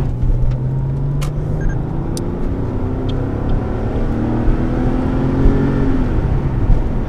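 Porsche 993's air-cooled flat-six engine pulling steadily while driving, its pitch rising slowly and then falling away near the end.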